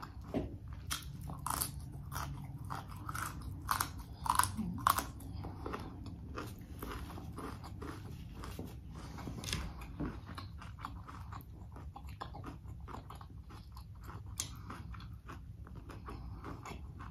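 Chewing a mouthful of crunchy broccolini: a run of crisp crunches over the first five seconds or so, then softer, steady chewing.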